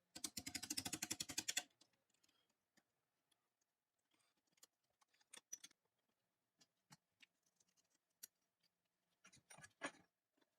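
A rapid run of sharp clicks, about a dozen a second for a second and a half, then sparse single clicks and light taps, with a short cluster of them near the end.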